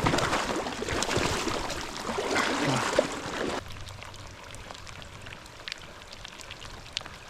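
Close water splashing over a running river for about three and a half seconds, then it cuts off abruptly to the quieter steady rush of the stream.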